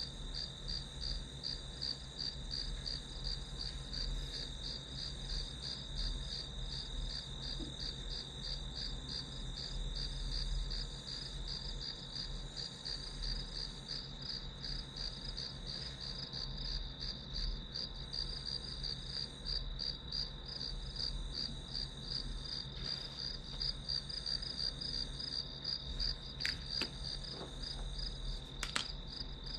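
Crickets chirping in a steady, evenly pulsing chorus, with a low hum beneath. A few sharp clicks sound near the end.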